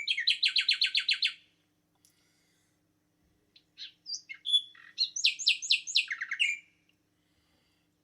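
A songbird singing two songs, each a quick run of repeated high notes: one at the start, lasting about a second and a half, and a second about two seconds later that ends on lower notes.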